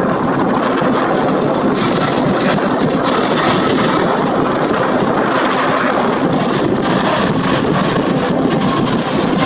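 Steady, loud jet engine noise from a Boeing 787-10 airliner.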